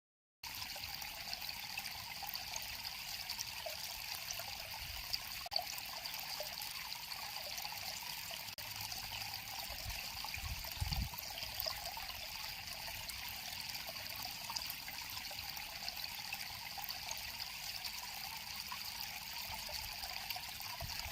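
River water flowing steadily with a trickling sound, with a brief low rumble about eleven seconds in.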